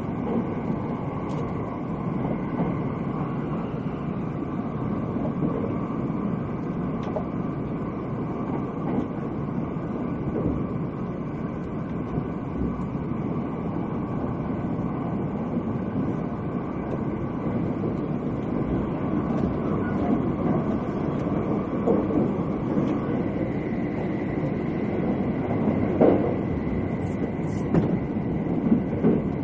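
Running noise of the Thunderbird limited express electric train heard inside the passenger car at speed: a steady rumble of wheels on rails, with a few sharper knocks in the last few seconds.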